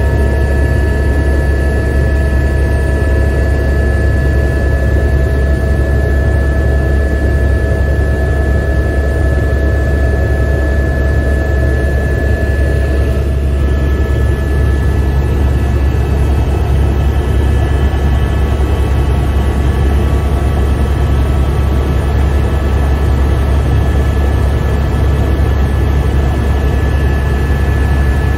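Helicopter in flight heard from inside the cabin: a loud, steady, heavy low drone from the rotor and engine, with several steady whining tones above it. One of the lower whines fades out about halfway through.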